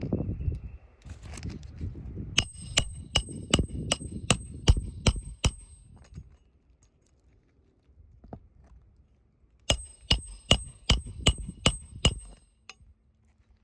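Hammer driving roofing nails into asphalt shingles: two runs of about nine quick, ringing strikes, roughly three a second, with a pause of a few seconds between them.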